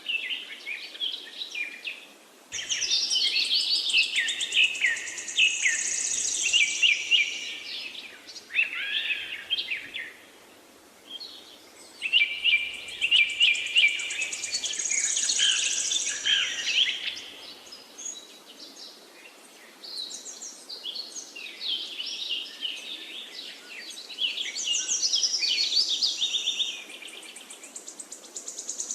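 Songbirds singing in long phrases of quick, varied high notes, in three main bouts with short quieter gaps between them, over a faint steady background hiss.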